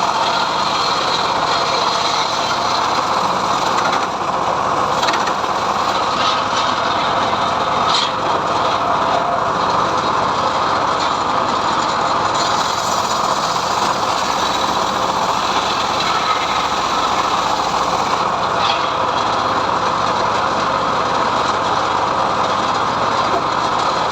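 Homemade sawmill running steadily, its saw cutting lengthwise through a mahogany log with a continuous, unbroken machine noise.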